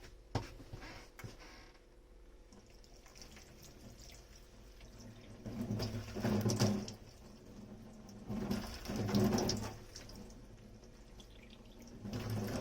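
Kitchen tap water running over dishes in the sink in three short bursts, in the second half. A single sharp knock comes near the start.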